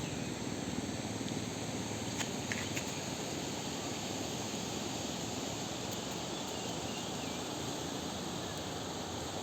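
Steady rushing outdoor ambience with faint, continuous high-pitched insect chirring. A few short clicks come about two to three seconds in.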